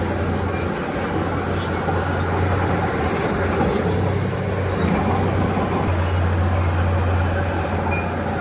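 Diesel engine of a Komatsu D31P crawler bulldozer running steadily with a constant low drone, with a few faint high chirps over it.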